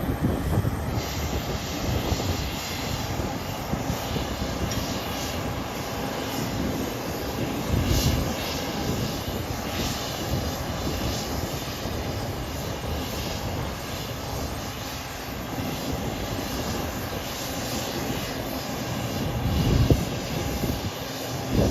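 Airliner engines, a steady rumble of an aircraft taking off or landing.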